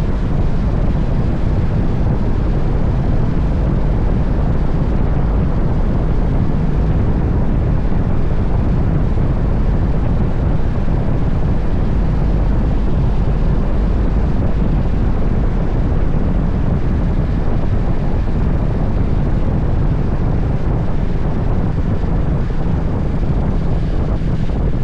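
Steady, loud wind rush on the microphone with a low engine drone underneath, as heard from a camera on a moving motorcycle.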